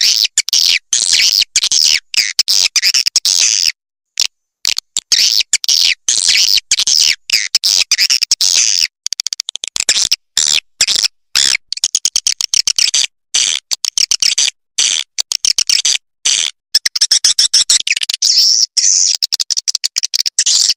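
Swiftlet lure call playback: rapid, high-pitched chittering chirps and clicks of the kind played in swiftlet houses to attract edible-nest swiftlets, cut by sudden silent gaps.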